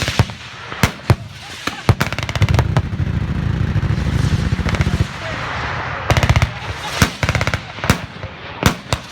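Rapid bursts of sharp bangs, each burst about half a second of evenly spaced reports, with single loud cracks between them and a low rumble in the middle.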